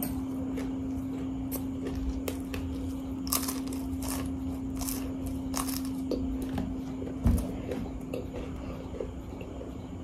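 A person eating samosa close to the microphone: wet, open-mouthed chewing and lip-smacking with small crunches of the fried pastry, over a steady low hum. One dull thump stands out about seven seconds in.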